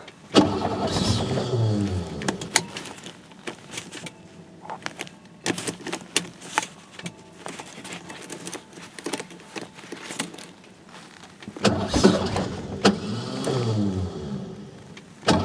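Ford F-150 plow truck being cranked on a cold start with ether. Its starter whirs and falls away in pitch near the start, as the engine fires just enough to throw the starter's Bendix drive out without running. After several seconds of scattered clicks, it cranks again with the same falling whir and fails to catch.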